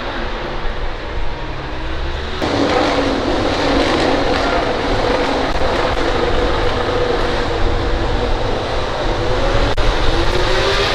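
MotoGP racing motorcycle engines at high revs. The sound gets louder and fuller about two and a half seconds in, the pitch sags slightly through the middle, then climbs again near the end as a bike accelerates.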